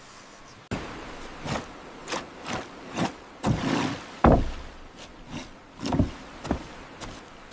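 Irregular knocks and thuds of wooden construction work, about a dozen over several seconds, the loudest a little past four seconds in.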